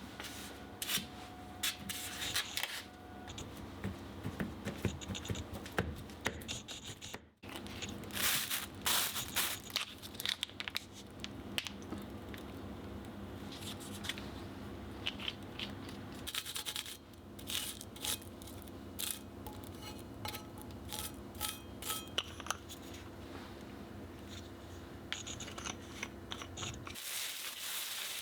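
Kitchen preparation sounds: irregular scraping, scratching and sharp clicks of utensils and food being handled, over a steady low hum.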